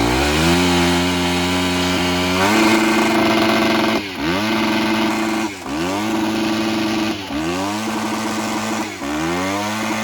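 Dirt bike engine cutting in loud and revving up hard, then held at high revs. It makes four quick dips and recoveries in pitch as the rider shifts up through the gears.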